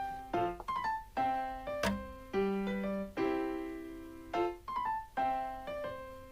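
Background piano music: a light melody of struck notes and chords, each ringing and fading before the next.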